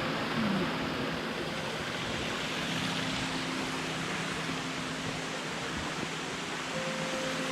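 Steady, even rushing noise with no distinct events, like flowing water or wind, with faint held musical tones underneath.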